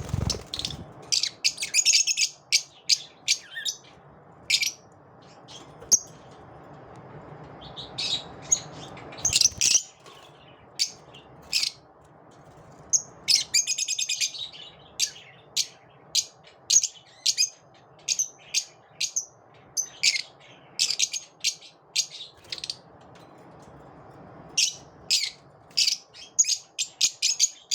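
Lovebirds chirping: short, sharp, high calls repeated throughout, with a few bursts of rapid chattering.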